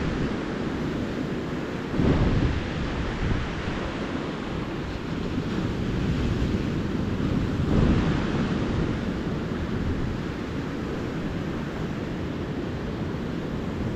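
Ocean surf washing ashore in a steady hiss, with wind buffeting the microphone as a low rumble. Waves swell louder about two seconds in and again near eight seconds.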